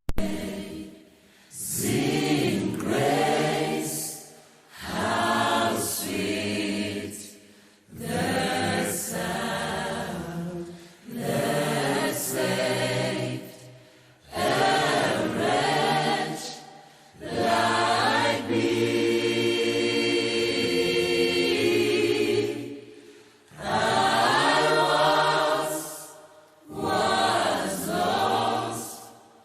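Choir singing a slow hymn in drawn-out phrases, with brief pauses for breath between them.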